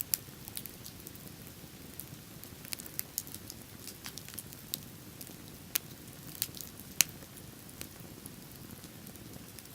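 Wood bonfire crackling: irregular sharp pops and snaps, a couple of louder ones about six and seven seconds in, over a low steady rush.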